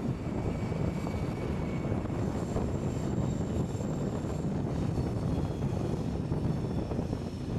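Passenger coaches of a diesel-hauled train rolling past close below, a steady rumble of wheels on the rails with the engine drone behind it. Faint high whines come and go in the first few seconds.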